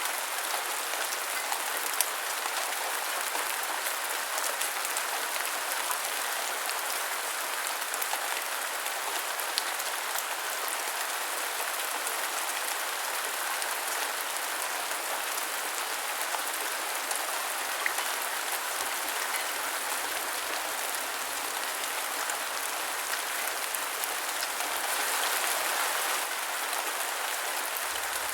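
Steady rain falling on a hard surface, an even hiss with scattered sharp drop ticks, swelling slightly near the end.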